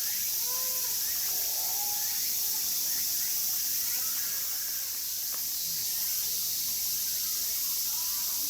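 A steady high-pitched hiss of insects, with faint distant voices rising and falling in the first few seconds.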